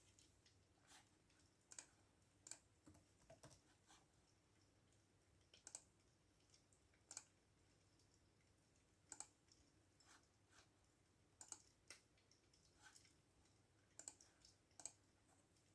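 Faint, scattered clicks of computer keyboard keys: single keystrokes every second or so with pauses between, rather than continuous typing.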